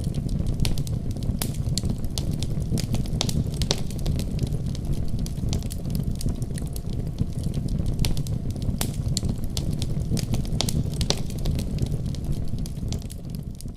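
Wood fire crackling in a fireplace: irregular sharp pops and snaps over a steady low rumble, starting to fade out at the very end.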